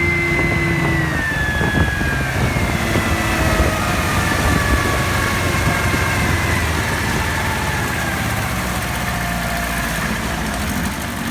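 1983 Evinrude 25 hp two-stroke outboard motor running, its engine note dropping slowly and steadily in pitch over several seconds as the revs come down.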